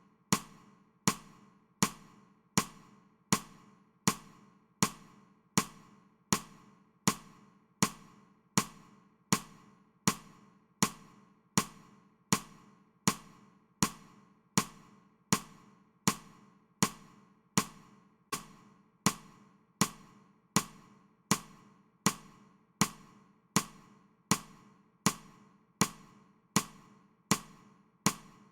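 Metronome ticking steadily at 80 beats per minute, one sharp click every three-quarters of a second.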